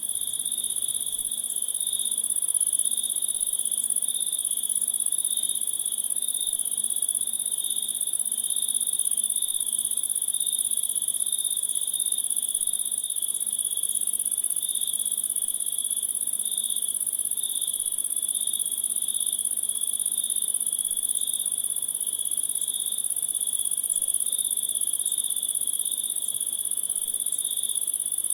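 A chorus of insects chirring without a break: a steady, very high-pitched hiss with a lower, pulsing trill over it.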